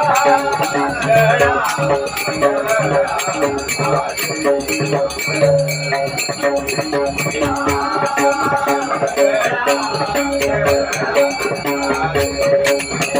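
Traditional bhajan music: hand cymbals (taal) struck in a fast, steady rhythm over drum beats and a held harmonium note.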